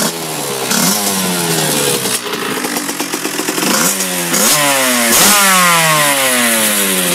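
KTM 65 SX two-stroke single-cylinder motocross engine being revved in quick throttle blips, the pitch shooting up and then falling back each time, about five times.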